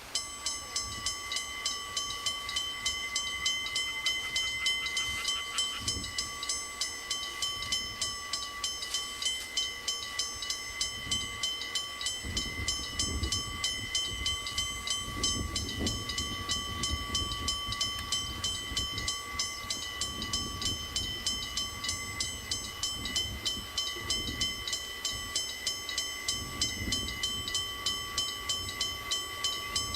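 Level crossing warning bell ringing in rapid, even strokes, about two to three a second. From about twelve seconds in, a train's low rumble joins it as the train passes.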